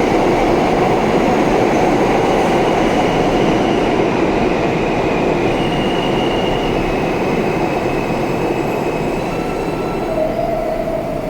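R160-series New York City subway train running along the track, a loud steady noise of wheels on rail with a few faint high wheel squeals coming and going. The noise eases off gradually toward the end.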